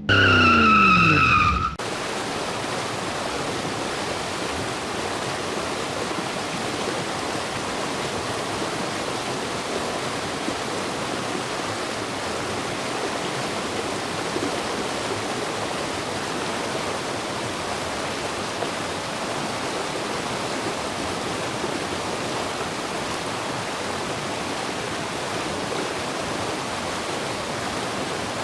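Water jets of an automatic truck wash spraying, a steady even hiss. It begins abruptly after a brief loud whine that falls in pitch over the first two seconds.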